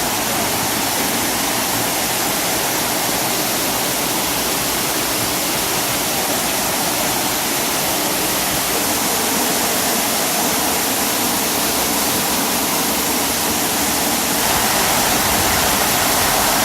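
Prenn waterfall's falling water making a steady, dense rush, growing slightly louder near the end.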